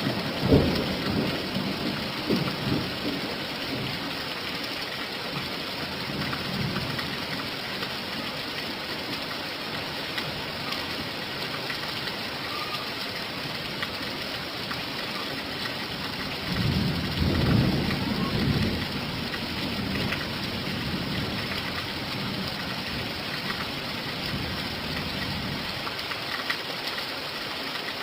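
Steady rain falling, with low rumbles of thunder in the first few seconds and again about two-thirds of the way through.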